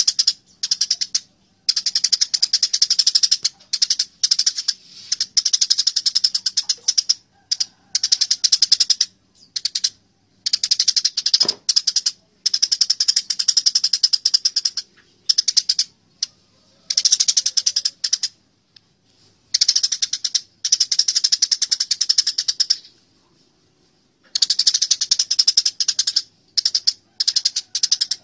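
Eurasian tree sparrows' fighting chatter: dense, rapid runs of high, sharp chirps lasting one to several seconds each, broken by short pauses.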